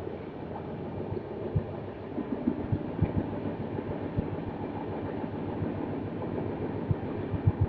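A passenger train running along the track: a steady rumble with irregular low knocks of the wheels, which come faster and closer together near the end.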